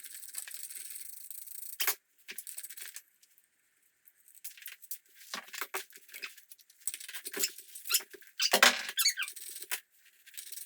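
Metal squeaking and scraping in short irregular bursts, with a sharp click about two seconds in, as tools work at the pit bike's rear axle to get the wheel off. The loudest, wavering squeaks come near the end.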